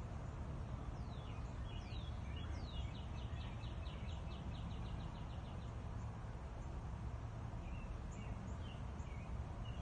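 A small songbird calling over a steady low rumble: a few high downward-slurred notes about a second in, then a fast trill of about eight short notes a second lasting some two seconds. Scattered single chirps follow near the end.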